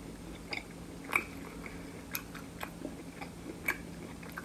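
Close-miked mouth sounds of someone chewing a mouthful of seafood boil: scattered soft wet smacks and clicks.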